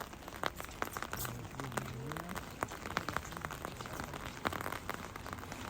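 Rain hitting a surface as a dense run of irregular light clicks over a steady hiss.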